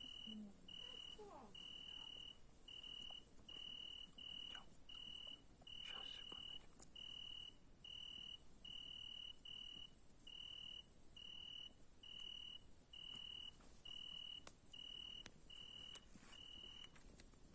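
Crickets chirping: a steady high-pitched trill, with a lower chirp repeating a little more than once a second that stops near the end. Both are faint.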